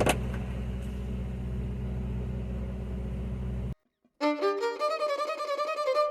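A steady low mechanical hum with a click at the start, cut off abruptly a little under four seconds in. After a brief silence, background music with a fiddle begins.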